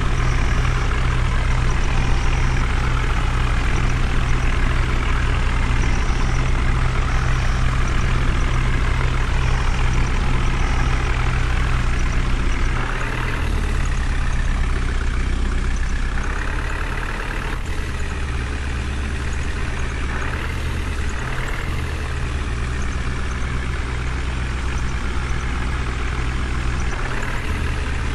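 Heavy diesel engine running continuously, with its note changing several times in the second half and getting a little quieter after about halfway.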